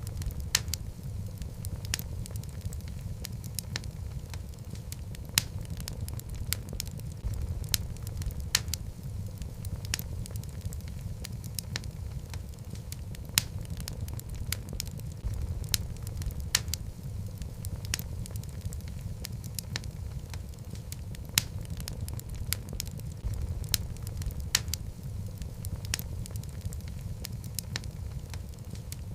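Wood fire burning in a fireplace: a steady low rumble of flames with sharp, irregular crackles and pops from the logs.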